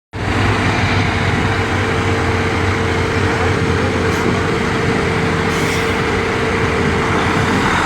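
A large mobile command truck's engine running steadily as the truck pulls away, with a steady hum and a held mid-pitched tone. There are two short high hisses about four and five and a half seconds in.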